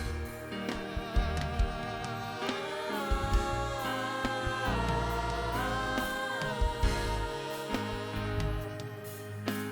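Gospel worship music with singing, held sung notes that step up and down in pitch over a steady accompaniment with regular drum hits.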